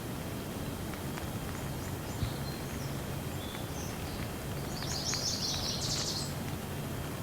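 Light rain ambience: a steady hiss over a low rumble, with scattered faint drop ticks. A bird chirps several times over it, most loudly about five to six seconds in.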